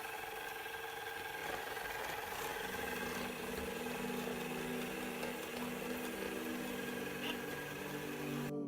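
ILIFE V7s Plus robot vacuum cleaner running: the steady whir of its suction motor and brushes, cutting off suddenly near the end.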